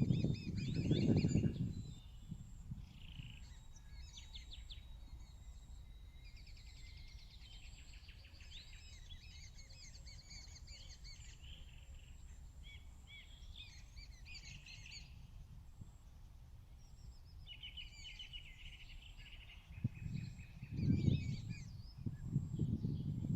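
Several birds chirping and trilling over a faint steady hum, with loud low rumbles in the first two seconds and again near the end.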